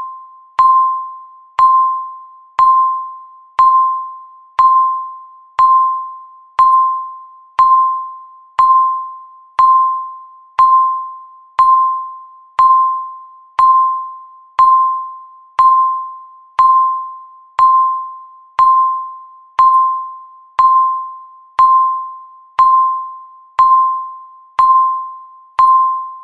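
Countdown timer beep sounding once every second: a single bell-like electronic tone that starts sharply and fades before the next, marking each second of the final countdown to zero.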